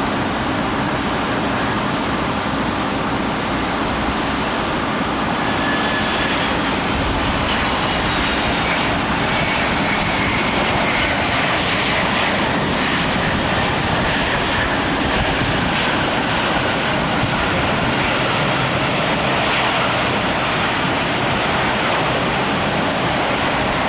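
Jet airliner engines running, with a faint whine that slowly shifts in pitch, over a steady hiss of heavy rain.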